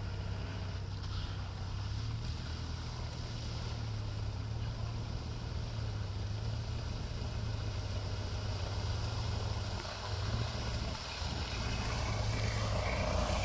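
Off-road 4x4 vehicle engine running steadily with an even low drone, under a constant hiss.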